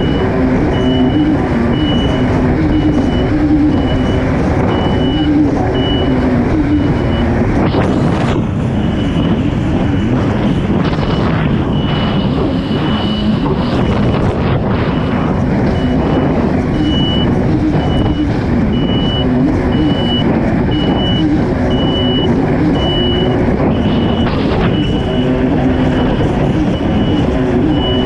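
Kawasaki STX 160 personal watercraft's four-cylinder four-stroke engine running steadily over loud water and wind rush, with surges of spray about eight seconds in and near the end. A short high-pitched beep repeats roughly once a second through most of it.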